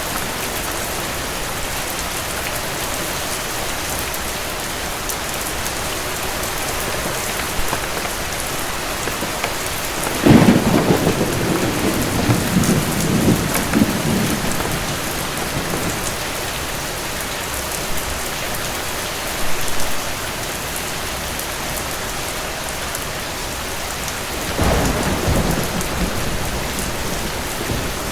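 Steady heavy rain with two rolls of thunder. The first breaks suddenly about a third of the way in and rumbles for several seconds; the second comes near the end.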